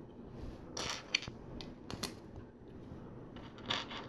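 Small plastic LEGO pieces clicking and rattling as they are handled, a few short clicks and rustles spread over the few seconds.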